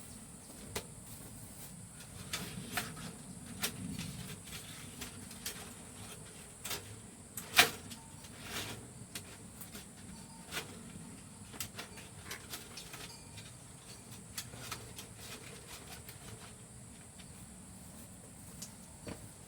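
Scattered knocks and snaps, one much louder about seven and a half seconds in, over a steady high hiss.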